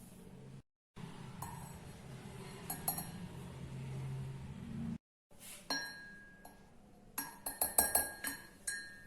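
Spoon clinking against a mug while mixing mug-cake ingredients: a few scattered clinks, then a quick run of ringing clinks in the second half.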